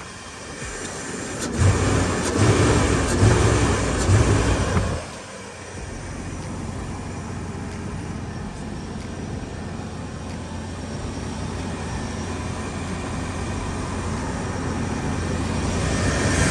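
The 5.7-litre V8 of a 2000 Cadillac Escalade fitted with a cold air intake, running. It gets louder and rougher for about three seconds, from just under two seconds in, then settles to a steady idle.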